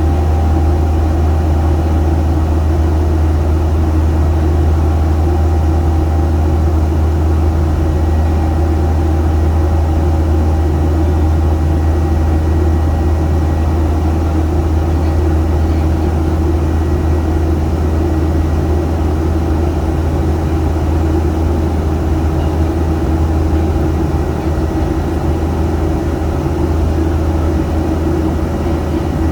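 Airliner in flight: a steady low drone of engines and airflow, with a few steady hum tones over it.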